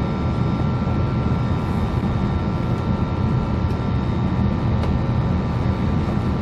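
Gas water heater burner firing with a steady low rumble, with a faint steady whine over it.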